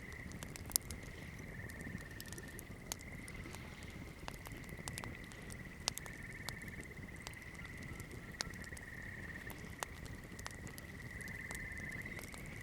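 Wood campfire crackling, with scattered sharp pops and snaps, the strongest just under a second in. A steady high-pitched trill runs underneath throughout.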